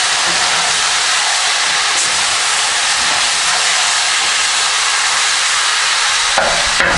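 Pork, onion and carrots frying in oil in a kazan: a steady, loud sizzle, with a couple of short spatula scrapes near the end as the pot is stirred.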